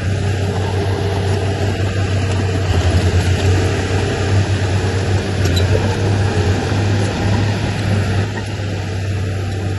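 Heavy diesel engine of earthmoving machinery running steadily under load, louder for a stretch in the middle.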